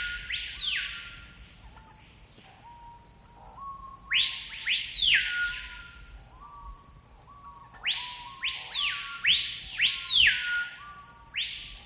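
Jungle bird calls: loud arching whistles that sweep up and fall back, in quick groups of three or four that come three times, with short lower notes beneath and a steady high hiss behind.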